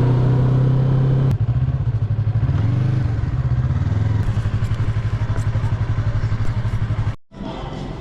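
Yamaha MT-03 motorcycle engine running, steady at first and then pulsing at low revs with a brief rise and fall in pitch. It cuts out suddenly near the end and comes back quieter.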